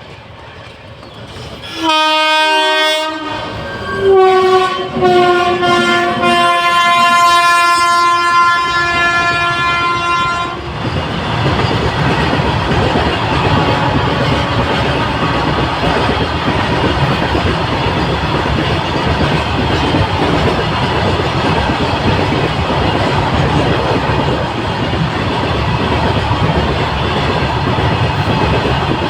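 Locomotive horn: a short blast about two seconds in, then a long blast of about six seconds whose pitch drops slightly as it goes. The train then runs past with a loud, steady rush of wheel and rail noise.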